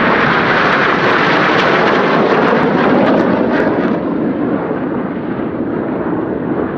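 BAE Hawk T1 jets of the Red Arrows flying past, a loud jet roar that swells to its peak about three seconds in and then eases off as the aircraft move away.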